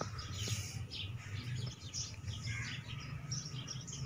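Small birds chirping: many short, quick calls overlapping throughout, over a low steady background rumble.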